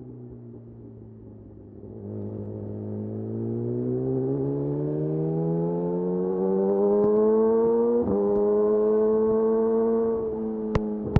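Yamaha YZF R6 inline-four engine through a de-catted Akrapovic slip-on exhaust, revving up steadily under acceleration with a short break about eight seconds in, then holding high before easing off. Two sharp cracks near the end.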